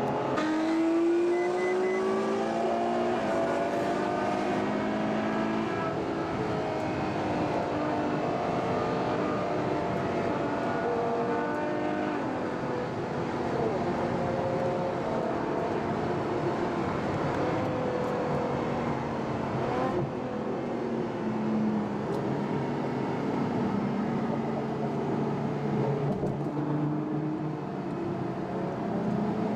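Car engines running, several at once, their pitch rising and falling gently as they move at low speed.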